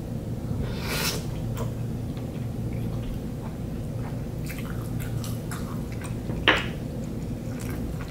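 Close mouth sounds of eating a pork soup dumpling: a short wet mouth noise about a second in, then chewing with soft squishy sounds and a sharper click about six and a half seconds in.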